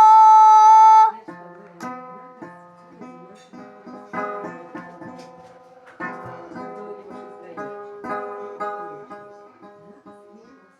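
A loud held vocal note cuts off about a second in, followed by a guitar being plucked, single notes and small chords picked one after another without a steady beat.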